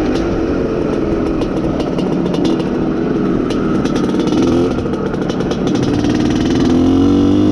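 IZh Planeta Sport motorcycle's single-cylinder two-stroke engine running under way during its run-in, its pitch rising as it revs up near the end.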